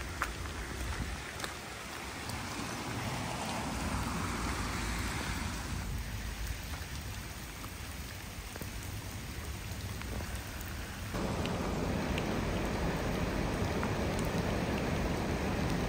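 Steady hiss of rain and storm water running through a flooded street. The sound changes abruptly about six and eleven seconds in, and is louder after the second change.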